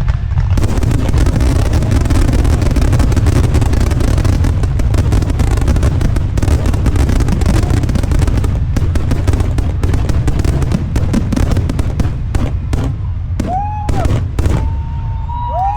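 Aerial fireworks barrage: a dense, continuous volley of shell bursts and crackle over a heavy rumble, which thins to scattered bangs in the last few seconds.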